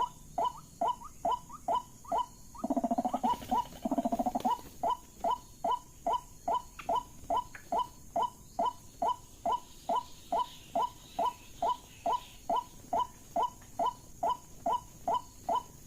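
White-breasted waterhen calls: a steady, fast series of short falling notes, about two and a half a second. Two lower, buzzy, rattling calls break in about three and four seconds in.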